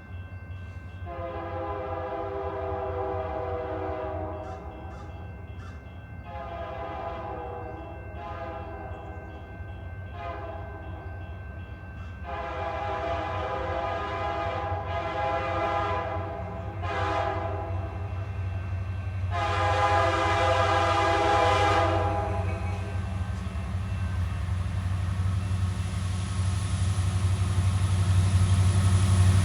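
CN freight locomotive air horn sounding a series of long and short blasts, over the steady low rumble of the diesel locomotives, which grows louder as the train nears.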